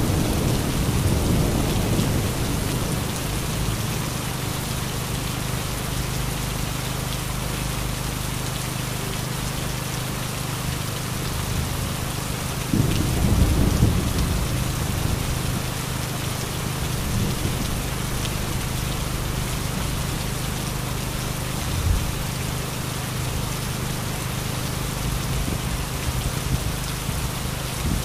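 Heavy rain pouring steadily in a thunderstorm. A low thunder rumble fades away over the first couple of seconds, and another rolls in about halfway through, with a short low thump some seconds later.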